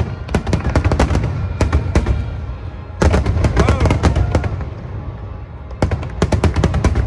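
Large aerial fireworks display: rapid volleys of shell bursts, sharp cracks over a continuous deep booming rumble. A fresh burst of bangs comes about three seconds in, and the firing thickens again near the end.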